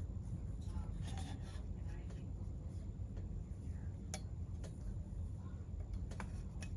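Small parts being handled by hand: light rubbing and rustling, with a few short sharp clicks, the clearest about four seconds in and twice near the end, over a low steady hum.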